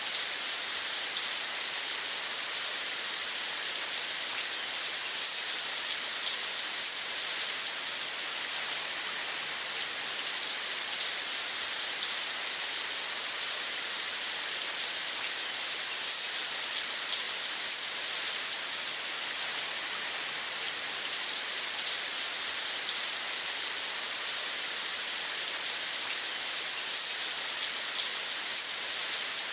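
Steady rain falling: an even, dense patter of drops that holds at the same level throughout.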